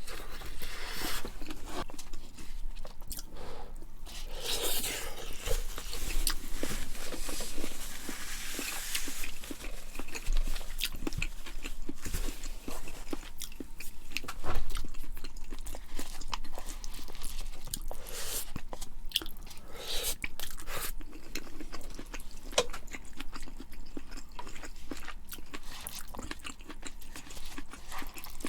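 Close-miked chewing and biting of food: wet mouth sounds with many small crunches and clicks, and one louder thump about halfway through.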